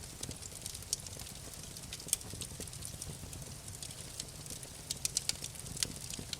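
Wood fire crackling, with irregular sharp pops and a quick run of them about five seconds in, over a low steady rumble.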